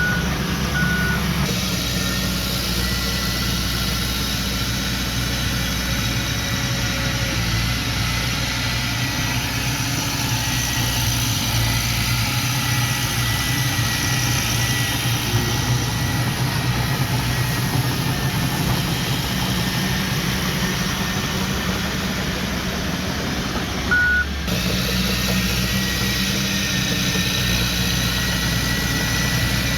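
Diesel engine of heavy earthmoving machinery running steadily, with a few short beeps near the start and one more about 24 seconds in.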